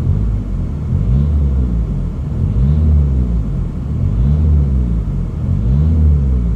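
Skoda Fabia vRS Mk1's rebuilt 1.9 TDI four-cylinder turbo-diesel, fully warmed up, revved four times, engine speed rising and falling about every second and a half.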